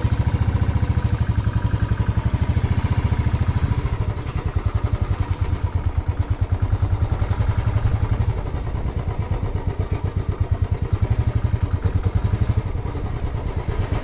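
Motorcycle engine running steadily while riding, with an even, rapid pulsing beat.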